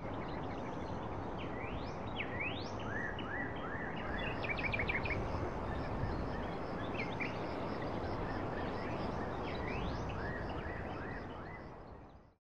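Birds calling over a steady background rush: rising whistles and quick runs of short chirps, repeated throughout. The sound fades out near the end.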